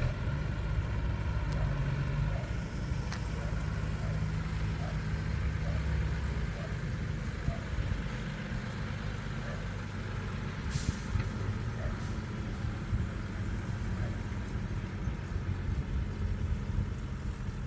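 Heavy lorry engine running steadily, with a short hiss of air from its brakes about eleven seconds in.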